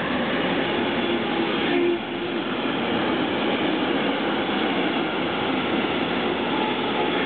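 Freight train of tank-container and container wagons rolling past close by: steady wheel-on-rail noise, briefly quieter about two seconds in.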